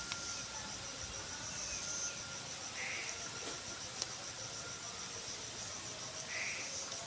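Steady chorus of insects, with an evenly pulsing high trill. A short call sounds about every three and a half seconds, with a few faint clicks.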